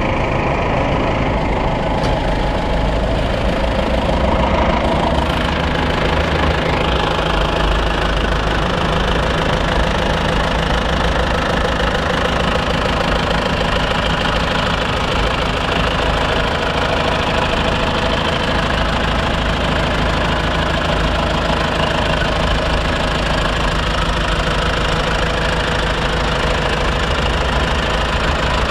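John Deere 2850 tractor's diesel engine running steadily. Its note rises a little over the first few seconds, then holds even.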